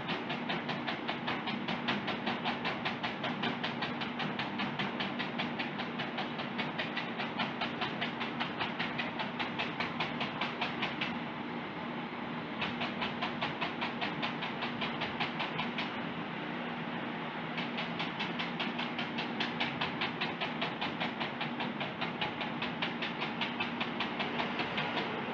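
A bristle brush dabbed over and over against a painting canvas: an even tapping about five times a second, pausing briefly twice, over a low steady hum.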